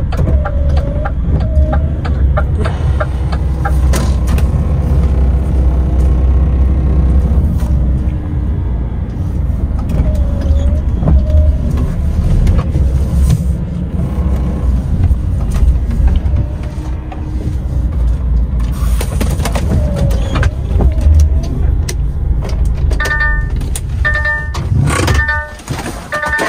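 DAF XF 510 truck's diesel engine droning under way, heard from the cab along with road noise. It drops off about 25 seconds in, and a regular repeating electronic beep begins near the end.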